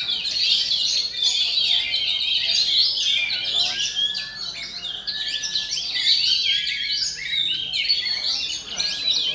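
Oriental magpie-robin singing a fast, unbroken stream of varied chirps and whistles, with a few brief held whistled notes near the middle.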